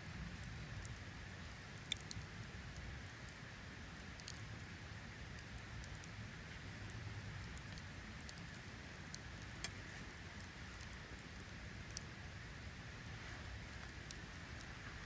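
Wood campfire crackling: scattered sharp pops and ticks, a few louder ones about two, eight and ten seconds in, over a steady low hiss.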